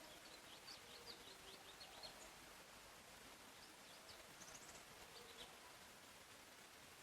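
Faint forest birdsong: small birds giving quick series of short, high chirps, in three bursts, over a steady background hiss.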